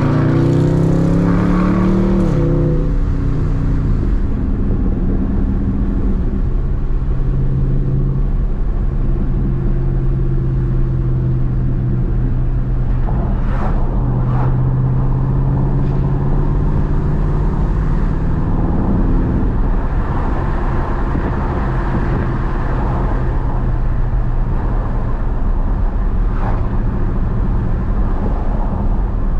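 Dodge Charger Daytona 392's 6.4-litre HEMI V8 running under way, its pitch falling as the revs drop over the first couple of seconds. It then settles into a steady low drone at cruising speed.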